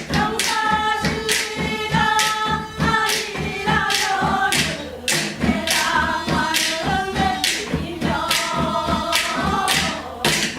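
Korean Gyeonggi-Seodo folk song (gyeongseodo sori): singing voices holding and bending long notes over a steady beat of drum strokes.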